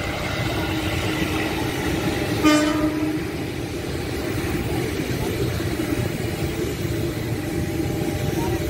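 A KRL JR 205 series electric commuter train running past with a steady rumble of wheels on rail. It gives one short horn toot about two and a half seconds in, lasting about half a second.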